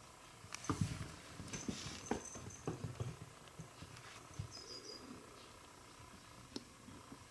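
A kitten scuffling and pouncing in play: irregular soft thumps, scuffs and scratches of paws, busiest in the first half.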